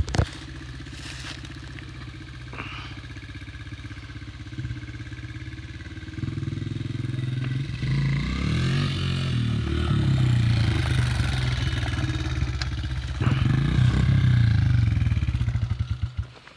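Honda CRF dirt bike engine running, faint at first and growing louder from about six seconds in as the bike comes closer and revs, then cutting out abruptly near the end.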